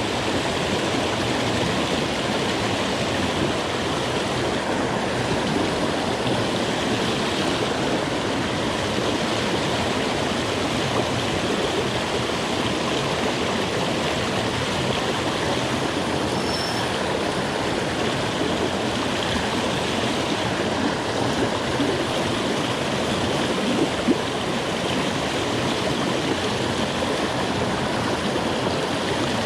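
Steady rushing of a fast-flowing jungle stream over rocks.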